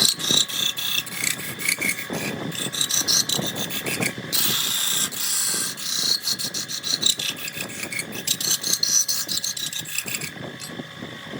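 Wood lathe turning a jackfruit log: a turning tool cutting and scraping the spinning wood in a fast run of rattling strokes, over a steady whine from the lathe.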